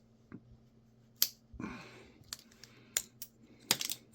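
Small plastic and metal parts of a power-tool switch clicking and rattling as the switch is taken apart, with scattered sharp clicks, a short scrape about a second and a half in, and a quick run of clicks near the end.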